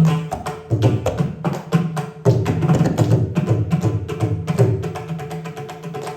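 Live Carnatic percussion: Indian hand drums played in rapid, dense strokes, with resonant pitched bass strokes. The playing grows softer over the last seconds, and a steady held tone sounds underneath from about four and a half seconds in.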